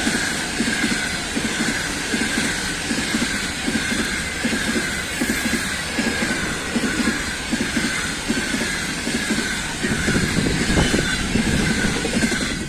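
Railway train passing at speed: the wheels beat a regular clickety-clack over the rail joints, about two beats a second, over a dense rolling rumble with a steady high-pitched tone; the low rumble grows heavier near the end.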